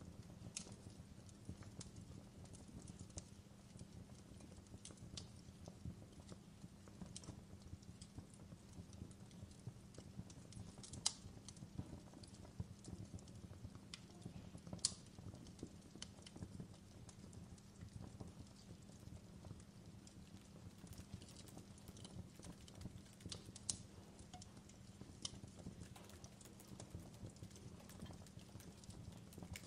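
Fireplace crackling faintly: irregular sharp pops and snaps, a few louder than the rest, over a low steady rumble.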